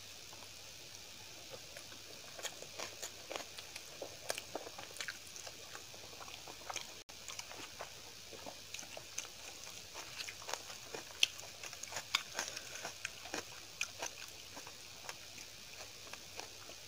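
Close-miked chewing of a mouthful of rice and chapati with vegetable curry: irregular wet smacks and clicks of the mouth, thickest from about two seconds in, with a momentary cut-out about halfway.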